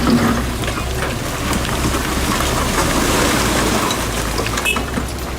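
Heavy machine's engine running with a steady low rumble under a loud, even hiss and scattered clicks.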